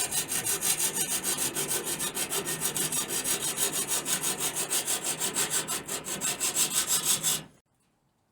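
Metal body panel being cut to trim it, a fast, regular rasping of about seven cutting strokes a second that stops abruptly about seven and a half seconds in.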